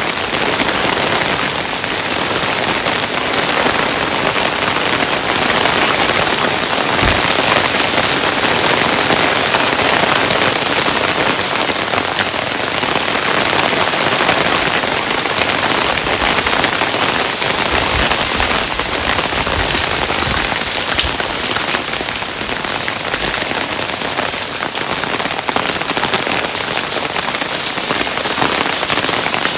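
Hailstones falling steadily: a dense, unbroken patter of many small impacts, with now and then a deeper thud.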